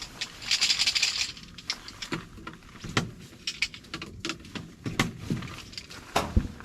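A brief rustle, then a scatter of light clicks and knocks as small objects are handled and set down.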